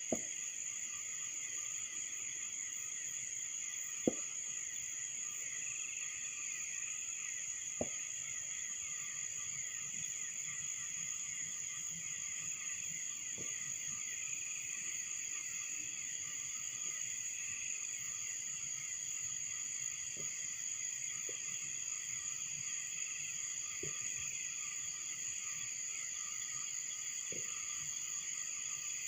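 Steady night chorus of crickets and other insects, trilling without a break. About seven faint short thuds of distant fireworks come through it, the clearest about 4 and 8 seconds in.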